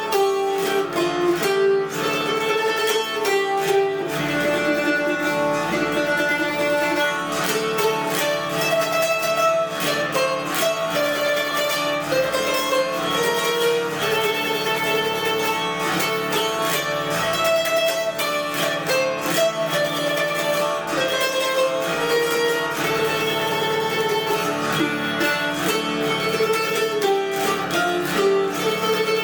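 Hungarian zither (citera) playing a Hungarian folk melody: quick plucked and strummed notes over steadily ringing drone strings.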